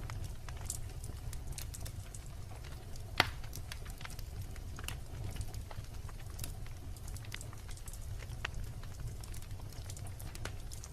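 Wood logs burning in a fireplace, crackling with irregular sharp pops over a steady low rumble of the flames; one pop a little after three seconds in is louder than the rest.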